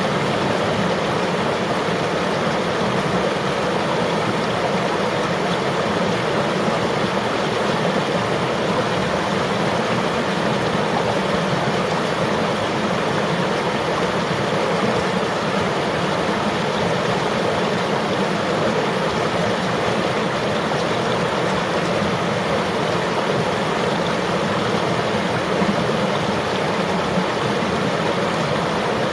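Flowing river water, a steady rushing wash of sound that stays even throughout.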